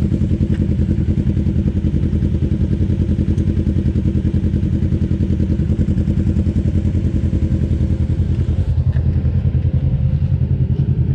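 Off-road side-by-side engine running steadily at low revs, with an even, rapid pulsing beat.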